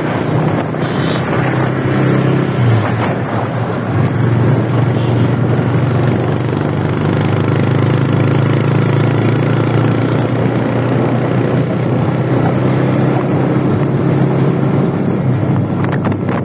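An engine running steadily, a low even drone under a constant noisy rush.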